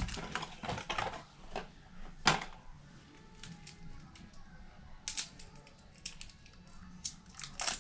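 Scattered small plastic clicks and taps as batteries are fitted into a thermostat and it is handled, with one sharper click a little over two seconds in and a quick run of clicks near the end.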